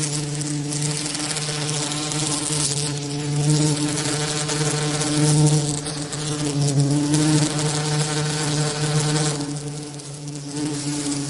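A bee buzzing in a steady, low-pitched hum, its wingbeat tone wavering slightly and swelling and fading as it moves about; it drops away somewhat about ten seconds in.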